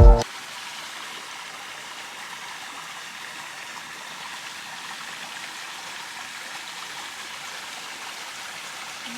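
Steady rushing hiss of running water from a stream, with no change in level throughout. Background music cuts off right at the start.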